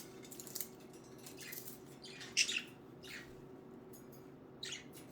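Budgerigars giving short chirping calls, about five in all, the loudest about two and a half seconds in.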